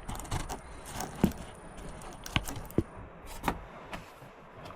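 Irregular knocks and clicks of hand work on a car's rear suspension while a part is worked into place, the sharpest knock about a second in.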